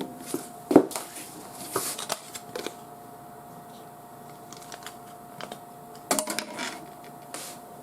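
Scattered small clicks and rustles of computer parts being handled, the loudest cluster about six seconds in, over a faint steady whine.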